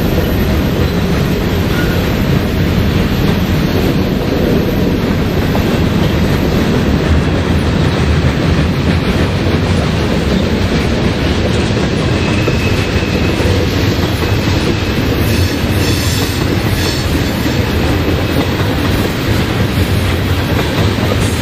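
Freight cars of a mixed manifest train, tank cars and boxcars, rolling steadily past, with a loud, even rumble and rattle of steel wheels on the rails.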